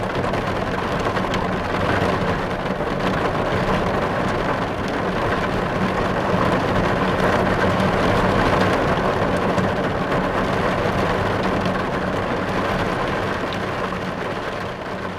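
Diesel engine of an earthmoving machine running steadily, a low drone under a loud, even hiss, easing off near the end.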